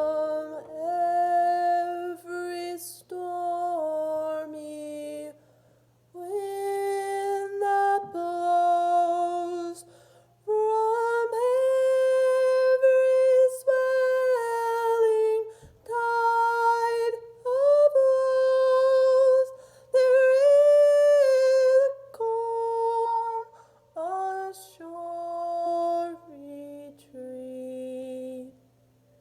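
A woman's solo voice singing a slow hymn tune unaccompanied, in long held notes with short breaths between phrases.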